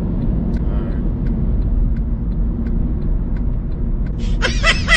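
Steady low road and engine rumble inside a moving car's cabin. Near the end a brief high, wavering pitched sound cuts in over it.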